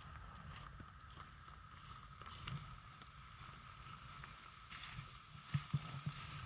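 Faint steady rumble of wind on the microphone, with a few soft thumps about five and a half to six seconds in.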